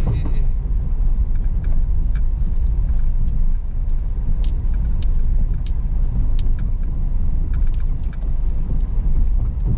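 Car driving over a rough unpaved offroad track: a steady low rumble of tyres and engine, with scattered sharp clicks and knocks from the road surface and rattles.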